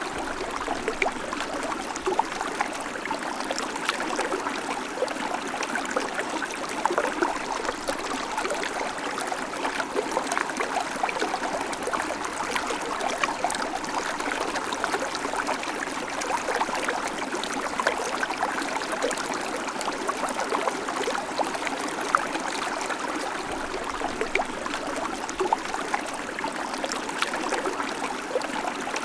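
Babbling creek: a steady rush of flowing water, full of small splashes and gurgles.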